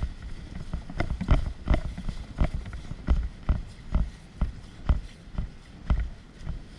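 Footsteps: a steady run of heavy thuds close to the microphone, about two and a half a second.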